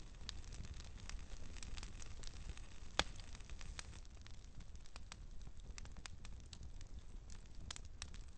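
Wood campfire burning and crackling, with irregular sharp pops over a low steady rumble of the flames. One pop about three seconds in is louder than the rest.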